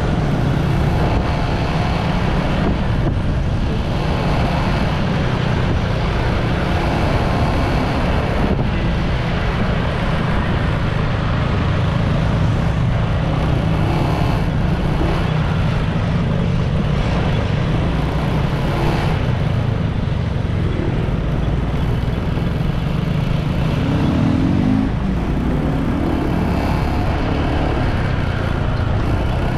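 Steady road noise of a motorbike underway: the engine running under a heavy low rumble, with a short rising engine note about three quarters of the way through.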